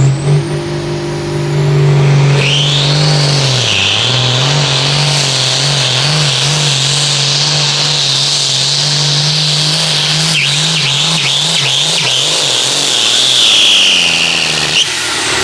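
Enhanced Farm class pulling tractor's turbocharged diesel engine held at full power during a pull, running steadily with a high whine above it. The throttle drops abruptly near the end.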